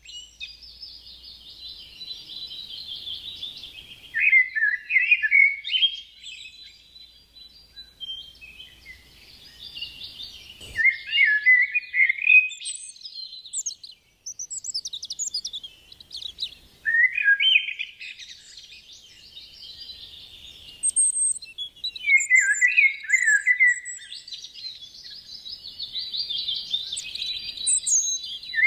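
A songbird singing long, repeated phrases. Each phrase is a fast, buzzy trill that drops into lower warbling notes, and the phrases come every few seconds with short pauses between.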